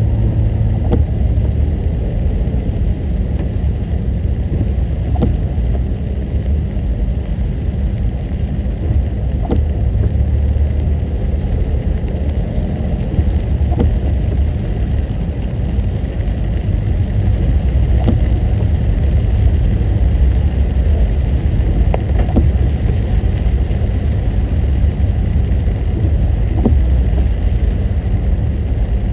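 A car driving on a wet road, heard from inside: a steady low rumble of engine and tyres, with scattered faint ticks.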